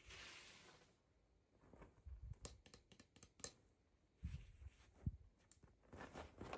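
Faint handling noises: a brief rustle at the start, then scattered light clicks and a few soft knocks, like small plastic toys and packaging being handled.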